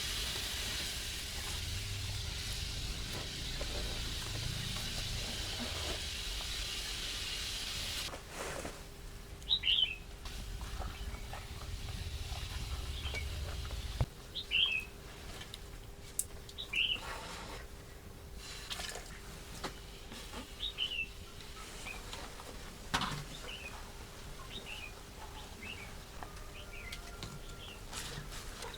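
Small birds chirping: short, high chirps every second or two. For the first eight seconds or so a steady hiss with a low rumble covers them.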